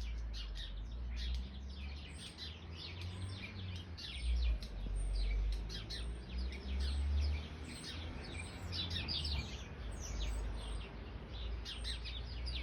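A chorus of garden birds: sparrows chirping busily with a robin and a starling calling among them, many short chirps overlapping throughout. A steady low rumble lies underneath.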